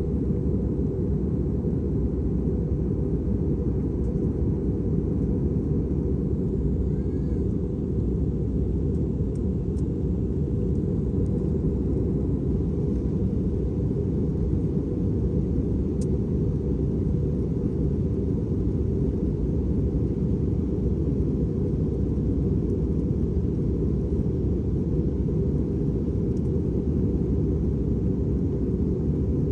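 Airbus A320 cabin noise: the steady low drone of the engines and airflow heard from inside the cabin, holding an even level.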